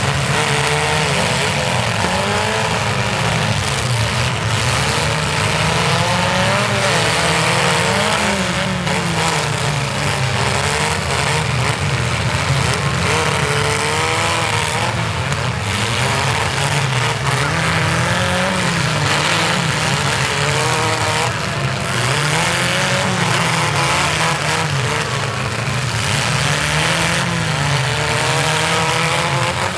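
Engines of several compact demolition-derby cars revving up and falling back again and again as they drive and ram each other in the mud. Now and then there is a thump of a collision.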